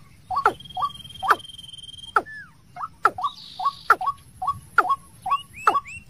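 Caged decoy bird calling over and over: a quick, even run of short notes that each drop in pitch, about three a second, with sharp clicking notes among them and a few rising chirps near the end.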